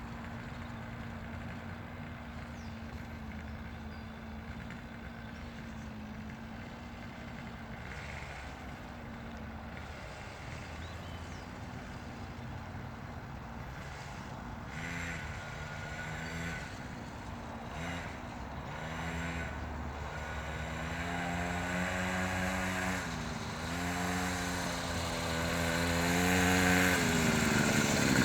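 Small motocross bike's engine running, at first a steady hum, then its pitch rising and falling as the throttle is worked from about halfway through, growing steadily louder toward the end.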